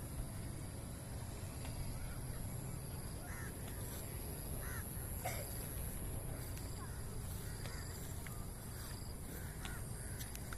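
Birds giving short calls every second or two over a steady low rumble.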